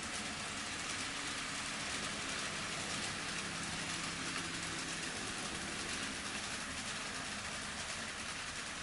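N scale model train running on the layout's track: a steady hiss of small metal wheels rolling on rail, with a low hum that fades out about halfway through.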